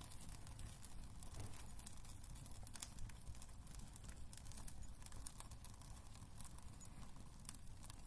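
Wood fire crackling in a fireplace: frequent irregular sharp pops and snaps over a faint low rumble of the burning logs.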